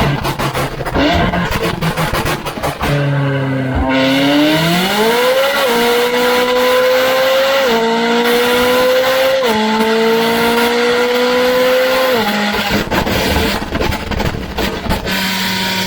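McLaren 570S twin-turbo V8, breathing through a Tneer catless-downpipe exhaust on a Stage 2 remap, making a full-throttle dyno pull. About four seconds in the revs climb steeply, then the engine upshifts twice with the pitch dropping at each shift, before lifting off near the end.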